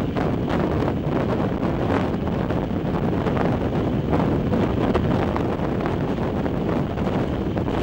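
Wind rushing over the microphone at an open window of a moving passenger train, over the steady rumble of the train running on the rails.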